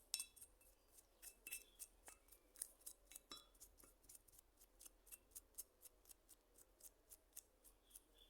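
Faint, quick short strokes of a hand tool, about three to four a second, each a sharp click or scrape.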